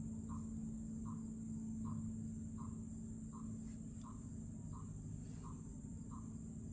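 An unidentified bird repeating a short knock-like note, evenly spaced at about one every three quarters of a second. A steady high insect trill, typical of crickets, runs underneath.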